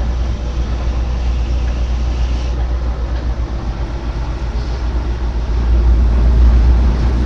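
Steady low rumble of heavy machinery running, with no distinct strikes or changes.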